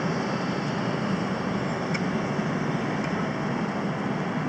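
Steady low rumble and hiss of a vehicle running, with no other clear event.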